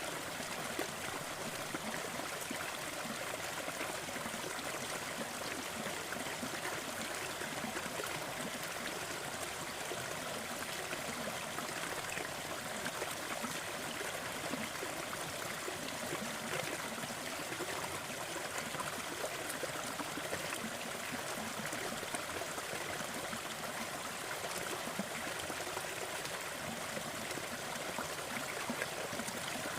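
Steady, even rushing noise with small crackling pops scattered through it: a fireplace crackling over a continuous noise bed.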